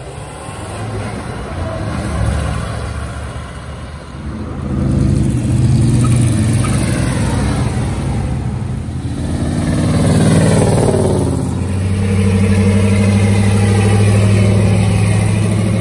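A car engine running, rising in pitch as it revs or accelerates around the middle, then holding a steady note through the last few seconds.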